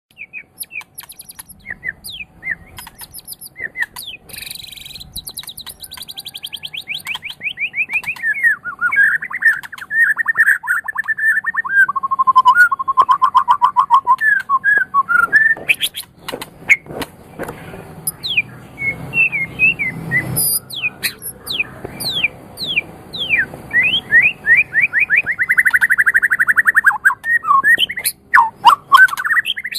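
White-rumped shama (murai batu) singing a loud, varied song: rapid trills, fast runs of repeated sliding whistled notes, and a few sharp clicks.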